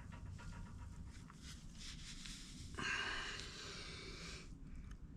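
Fresh motor oil glugging out of a jug into the engine's fill opening, louder for about a second and a half just past the middle. The oil is flushing the old oil out through the open drain.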